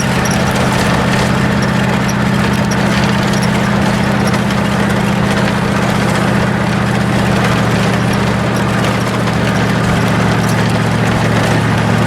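Zero-turn mower engine running steadily under load as the mower climbs a steep hill.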